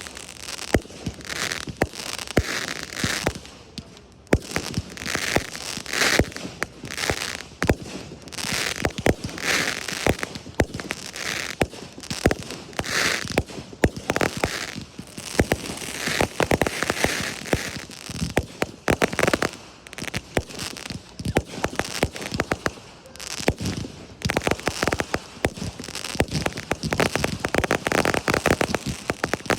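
Fireworks display: a rapid, near-continuous string of bangs and reports, with swells of crackling every couple of seconds.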